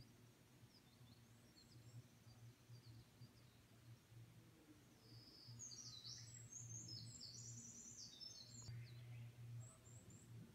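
Faint birdsong over a very quiet background: scattered high chirps, with a busier run of calls in the middle of the stretch, over a low steady hum.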